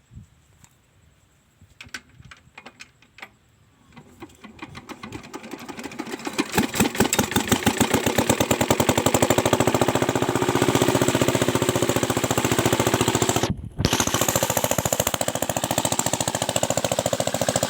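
Small diesel engine on a water pump starting up: a few scattered clicks, then knocking strokes that grow louder and faster until it is running about six seconds in. It then runs with a fast, steady diesel knock, broken by a short gap about two-thirds of the way through.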